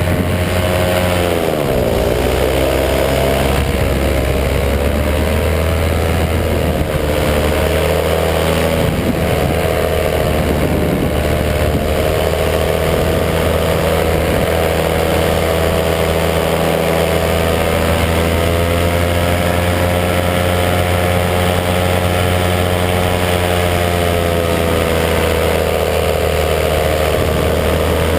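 A 185 cc EcXtreme paramotor engine and propeller running steadily in flight. Its pitch dips and recovers about two seconds in, and again about ten seconds in, as the throttle is eased.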